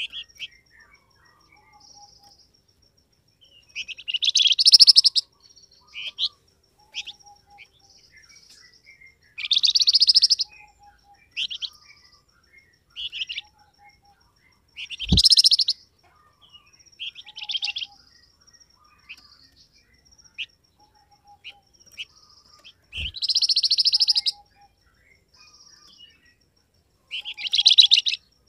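Call of the songbird known in Indonesian bird-keeping as the flamboyan: loud bursts of rapid, high chittering about every five seconds, with short single chips between them. Two brief low thumps come in, one about halfway through.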